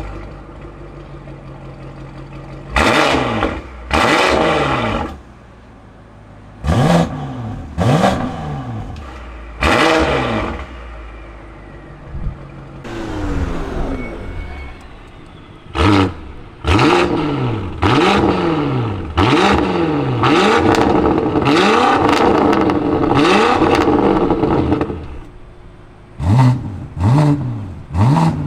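BMW X5M Competition's S68 twin-turbo V8, breathing through free-flow downpipes and a valved full exhaust, idling between free revs. It is blipped sharply a few times, then held up at higher revs for several seconds past the middle, and blipped quickly again near the end.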